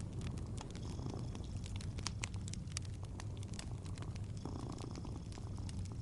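A cat purring in a steady low rumble, with the fine crackle and pop of a wood fire over it, many small snaps scattered through.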